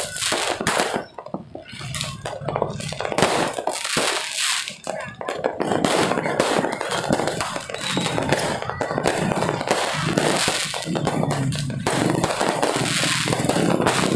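Fireworks and firecrackers going off in a dense, irregular run of bangs and crackles, with people's voices mixed in.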